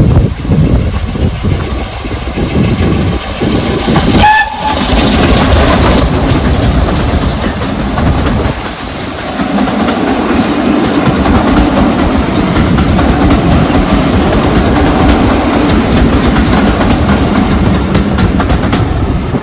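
Steam train passing: rhythmic exhaust beats at first, a short whistle note about four seconds in, then the steady rumble and clatter of the carriages rolling by.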